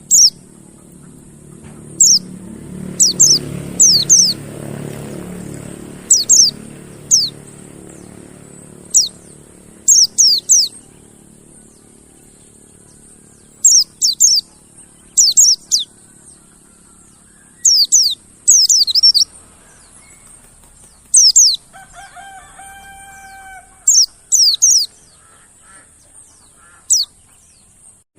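Mountain white-eye (pleci monty) calling: short, high, downward-slurred chirps, singly and in quick runs of two or three, every second or two. Under them run a steady high hiss and a low murmur in the first few seconds, and about two-thirds of the way in there is one held tone of about a second.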